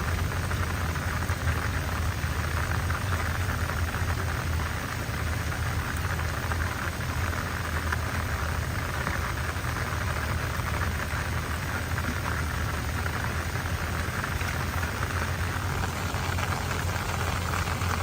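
Steady rain falling: an even hiss with a low rumble under it.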